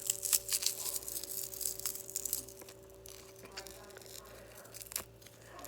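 Cracked glass phone screen protector being handled and pulled apart, its small shards crackling. A dense, rapid crackle of clicks for the first two seconds or so thins out to scattered clicks, over a faint steady hum.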